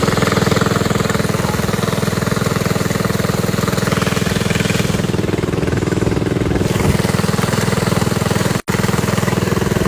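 Small motorbike engine running steadily with a rapid, even pulsing, with no clear rise or fall in pitch. The sound breaks off for an instant about nine seconds in.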